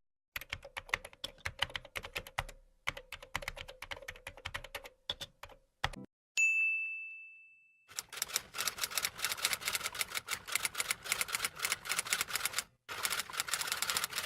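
A typing sound effect with rapid key clicks. About six seconds in a single bell ding rings out and fades, and then faster, denser typing follows.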